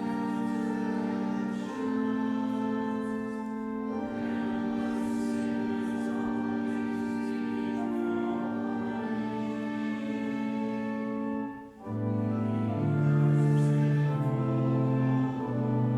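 Congregation chanting a psalm to a psalm tone, with instrumental accompaniment. Long held chords change every few seconds, with a brief break for breath a little before the end.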